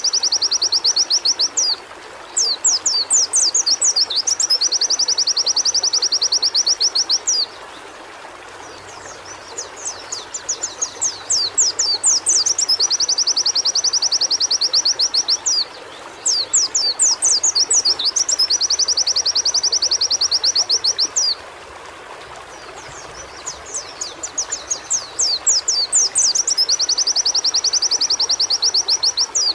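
White-eye (pleci) singing a repeated song: each phrase is a run of sharp, quick notes running into a long, fast, even trill several seconds long, about five phrases with short pauses between them. A steady hiss runs underneath.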